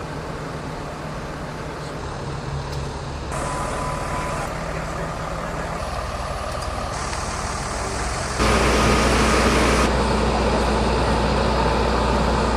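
Idling vehicle engines and road noise, with a steady hum. About eight seconds in, the sound jumps to a louder, deeper engine rumble.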